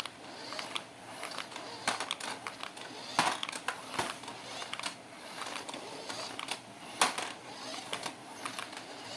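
Irregular plastic clicks and rustling from hands handling a toy remote-control car and its packaging, with a few sharper clicks scattered through.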